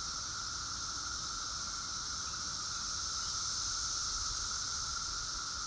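Chorus of periodical cicadas (Brood XIII), a continuous massed drone in two steady pitches, one mid-high and one higher, with no single call standing out.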